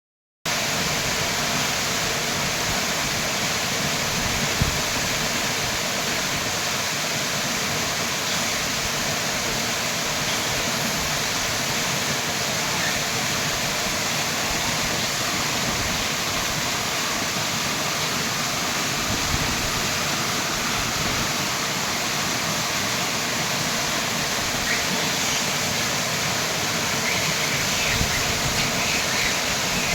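Small waterfall splashing and flowing, a steady even rush of water. A few faint high chirps come in near the end.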